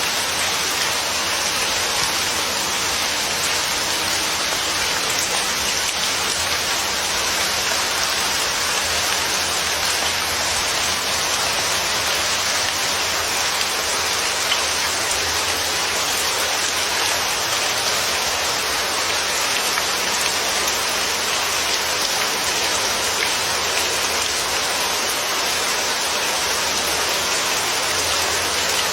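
Steady rain falling, a constant even hiss of drops with no thunder.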